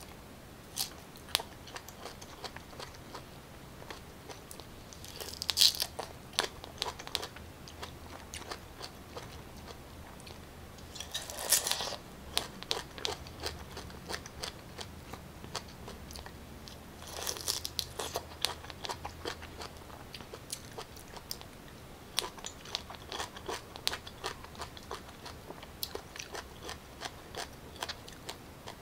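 Bites into raw pineapple spears, then crunching and chewing, with three louder bites spread through and softer chewing clicks between.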